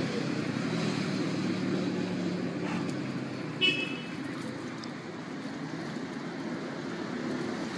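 Steady rumble of road traffic, with one short high-pitched sound about three and a half seconds in.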